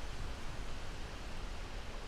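Steady wind: an even rushing hiss with a low rumble underneath.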